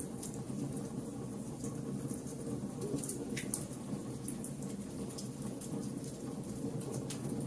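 A fire burning, with a steady low rumble and scattered sharp crackles and pops.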